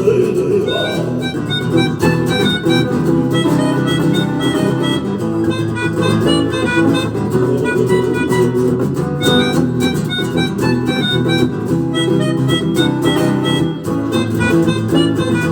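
Live rock band playing an instrumental passage of the song: guitars under a lead line of quick, short notes.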